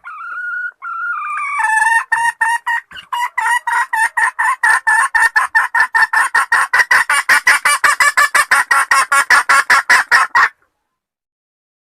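Junglefowl hen calling: a drawn-out rising note, then a long fast run of clucks at about five a second that cuts off abruptly near the end. This is the hen's call used to lure a junglefowl cock.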